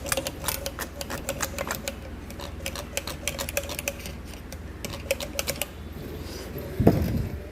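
Rapid, irregular metallic clicking from hand tools and parts during motorcycle engine assembly, with a faint ring. It is followed near the end by one heavy knock.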